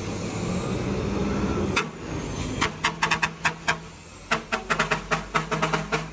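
A truck engine running steadily, with a faint rising whine. About two seconds in, it gives way to a quick run of sharp clicks or knocks over a steady low hum.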